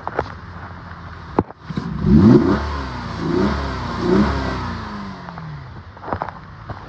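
2011 Chevrolet Malibu engine revved three times from idle, about a second apart. The first rev is the highest and loudest, and after each one the engine settles back down toward idle.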